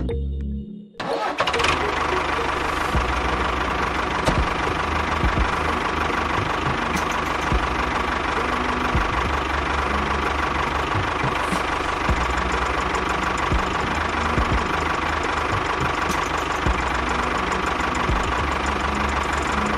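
A small motor running steadily with a fast rattle, cutting in about a second in as music stops.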